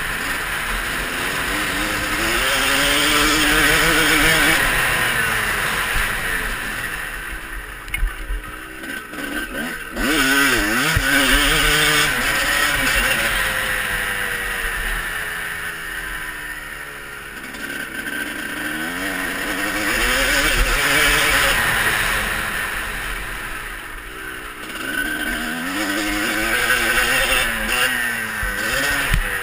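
Motocross bikes riding the track, their engines revving up and dropping back through the gears, getting louder and fading as they pass several times.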